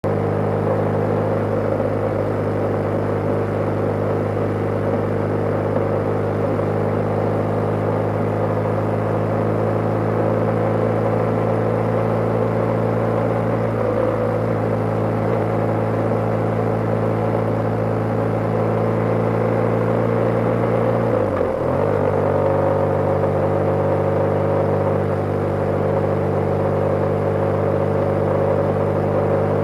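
BMW G/S motorcycle engine running steadily while riding. About two-thirds of the way through the engine note drops briefly and picks up again at a slightly different pitch.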